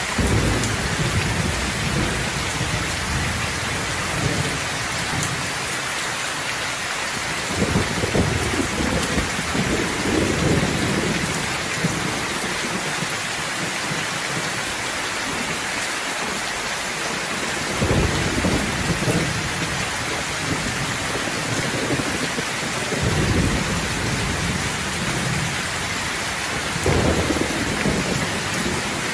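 Steady heavy rainfall hissing, with thunder rumbling in several long rolling swells throughout.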